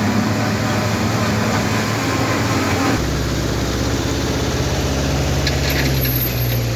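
Heavy truck engine running steadily with a low, even drone; about three seconds in, a deeper rumble joins it.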